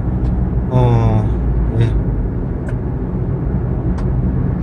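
Steady in-cabin road and engine rumble of a Kia Morning (Picanto) small hatchback cruising on a highway.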